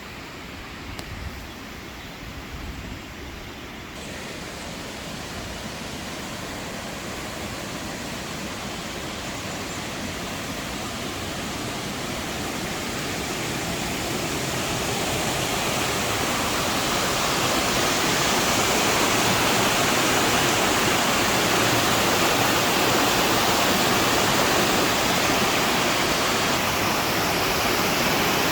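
Waterfall rushing: a steady roar of falling water that grows louder through the first half and then holds steady.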